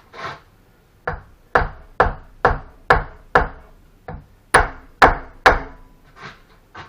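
A brick being tapped down into mortar during masonry work: about ten sharp knocks, roughly two a second, with a short gap midway.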